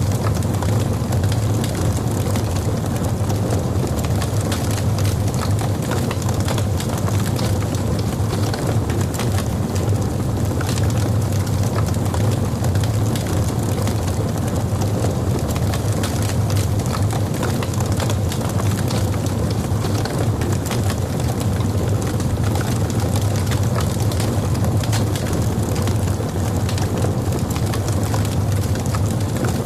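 Logs burning in a fireplace: many sharp crackles and pops over a steady low rumble of the flames.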